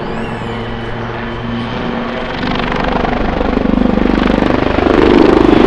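Royal Navy Wildcat HMA.2 display helicopters in flight, their rotor and turbine noise growing much louder from about halfway through as they close in, ending in a loud, pulsing rotor beat.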